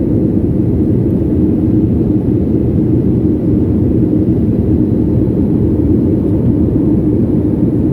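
Steady low rumble of an airliner in flight, heard inside the passenger cabin: engine and airflow noise.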